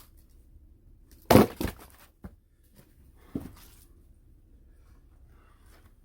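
Sharp woody knocks and cracks of firewood being struck or handled: a loud strike a little over a second in, a second one right after it, then two lighter knocks.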